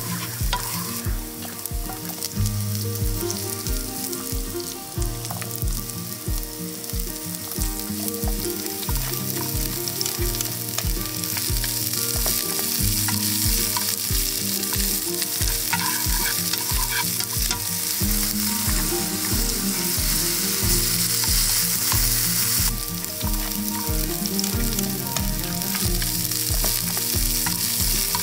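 Food sizzling as it fries in a hot pan, the sizzle growing louder for a stretch in the middle, over background music with a steady beat.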